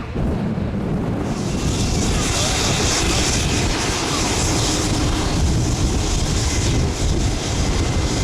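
Dornier C-146A Wolfhound twin-turboprop passing close, its engines and propellers a loud steady rush that swells about a second in and holds.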